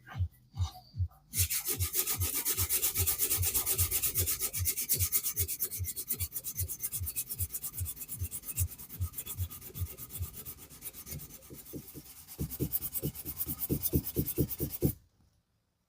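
Hand abrasion of a diecast metal car body: rhythmic back-and-forth rubbing strokes, nearly three a second, starting about a second in and stopping shortly before the end.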